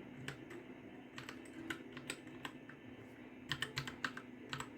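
Keys of a Royal Kludge RK60 keyboard being pressed: single clicks at an irregular pace, then a quick run of several presses near the end.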